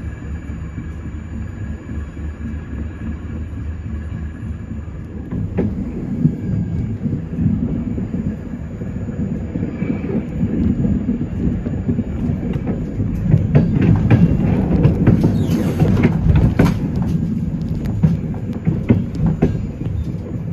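Passenger coach of a locomotive-hauled express train running over the rails, heard from inside the coach: a steady low rumble with clicks and knocks as the wheels cross points and rail joints. The knocks begin about a quarter of the way in, and the run grows louder and busier around the middle.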